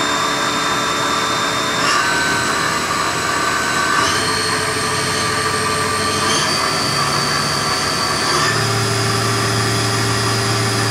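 Haas VF-3 vertical milling center's CAT 40 spindle running with a steady whine, stepping up in pitch four times as the spindle speed is raised from 4,500 rpm.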